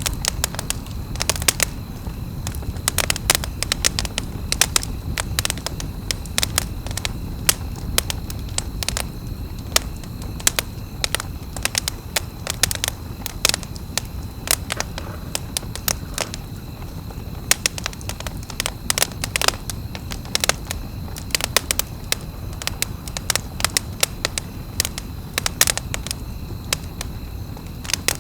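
Wood campfire crackling, with irregular sharp pops of burning wood several times a second over a low, steady rumble of the flames.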